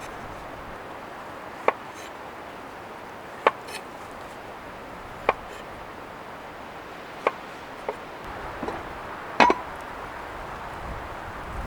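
Sharp chops on wood, about six strikes roughly two seconds apart, the loudest a double hit near the end, over steady outdoor background noise.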